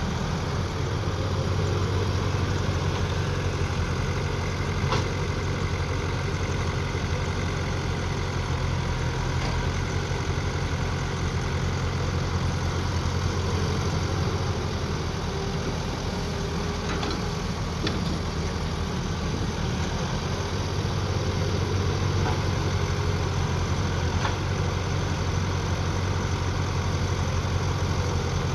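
Mini excavator's engine running steadily at a constant speed, with a few faint clicks or knocks scattered through it.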